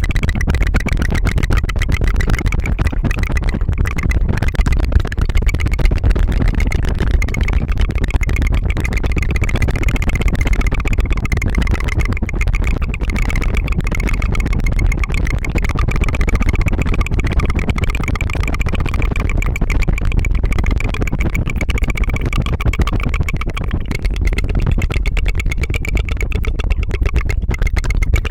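Rapid tongue fluttering close to the microphone: a fast, steady, engine-like rattle of the tongue trilling against the mouth.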